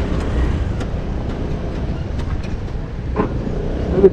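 Vespa scooter ridden over a rough, broken road: a steady low rumble of engine and road noise, with a couple of short knocks from bumps near the end.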